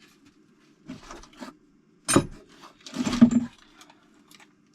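Loose metal bolts clinking and knocking as they are handled and set into a container. There are a few light clicks about a second in, a sharp clink about two seconds in, and then a short cluster of clinks and rattles just after three seconds, over a low steady hum.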